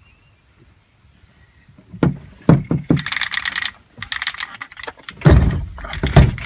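Near silence, then a few sharp knocks and a brief rattle, followed by heavy, deep thuds: handling work around the boat's old batteries.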